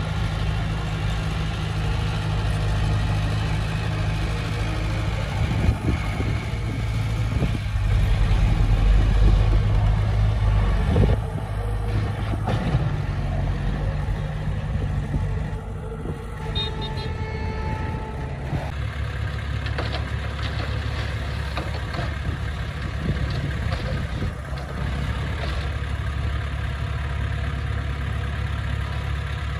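Diesel engine of heavy earthmoving machinery running steadily, louder for a few seconds about a third of the way in.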